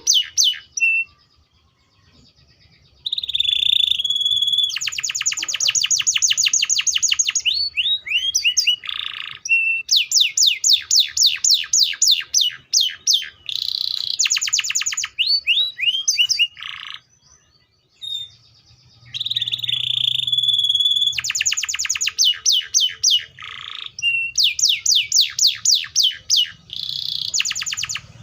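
Domestic canary singing: long phrases of fast trills made of quickly repeated falling notes, with a held whistled note twice, broken by short pauses.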